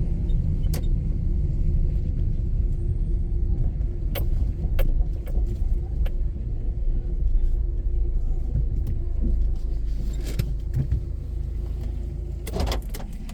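A car running along the road: a steady low rumble with a faint steady hum and scattered sharp clicks, easing down near the end.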